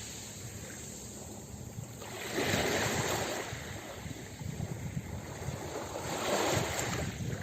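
Ocean waves breaking on a beach: a steady wash of surf that swells twice into louder rushes, a few seconds apart.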